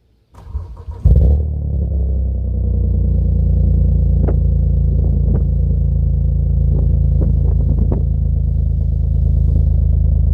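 Hyundai Coupe 2.7 V6 cold start heard at the exhaust: the starter cranks briefly, the engine catches with a loud flare about a second in, then settles into a steady fast cold idle. A few short sharp ticks sound over the idle in the middle.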